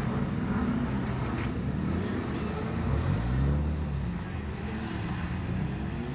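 Car engine revving while drifting on a wet track; the engine note rises and then falls about halfway through, over a steady wash of noise.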